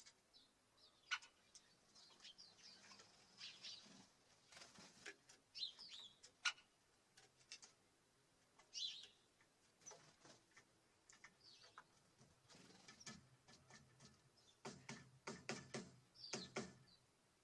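Small birds chirping in short, scattered calls, mixed with light clicks and taps at a bird feeder.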